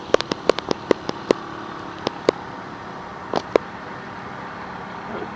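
Minibike's small engine running steadily at a distance, with a quick run of sharp clicks over the first second or so and a couple more pairs of clicks later.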